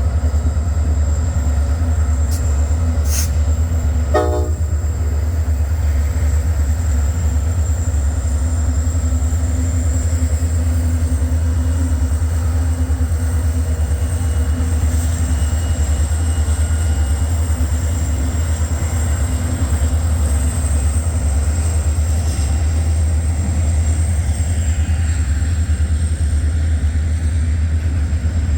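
Freight train with diesel locomotives moving out, a loud steady low rumble, with a brief pitched tone about four seconds in.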